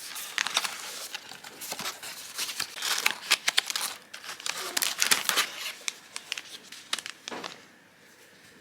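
Packaging being crinkled and handled, with dense crackling and sharp rustles that die down near the end.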